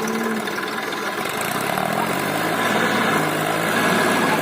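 Tractor diesel engine running. Its low, steady note comes in about a second and a half in and grows a little louder.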